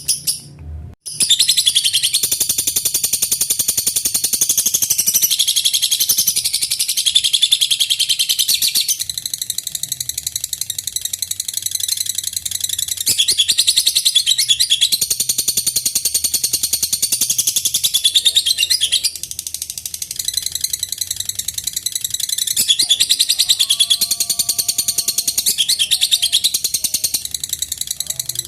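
Lovebird ngekek: a long, unbroken, rapid high-pitched chattering trill, starting after a short gap about a second in and easing slightly in loudness for a moment partway through.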